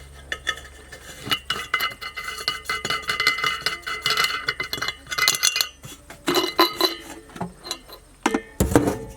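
Metal clinking and rattling: a quick series of light knocks and taps, with some ringing, as parts in a truck's engine bay are handled and moved.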